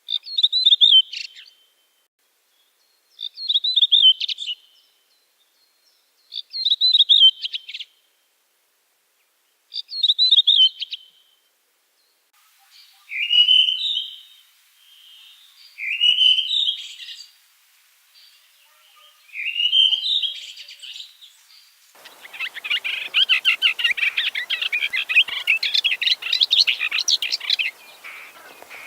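Songbird song in three runs: four short phrases about three seconds apart, then three phrases of rising, swooping notes, then a long unbroken rapid song from about two-thirds of the way in.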